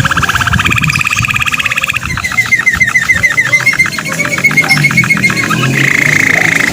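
Domestic canary singing in trilled tours: a fast rolling trill, then a run of separate chirps at about eight a second, then a buzzy rapid trill near the end.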